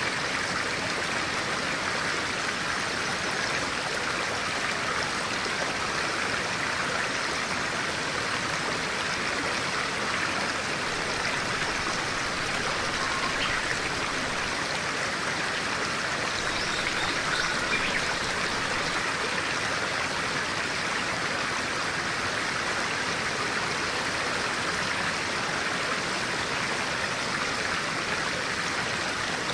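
Stream of clear water running steadily.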